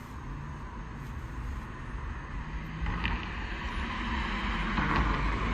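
Wind buffeting the microphone over a low outdoor rumble, growing louder near the end.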